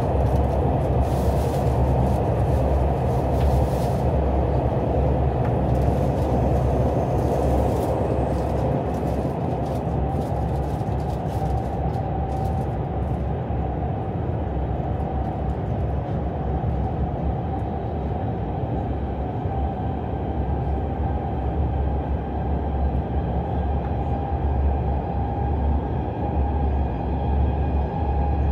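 KTX high-speed train running, heard from inside the passenger car as a steady low rumble of wheels on rail. Faint high crackles and ticks come through over the first dozen seconds or so, then die away, leaving a faint steady whine over the rumble.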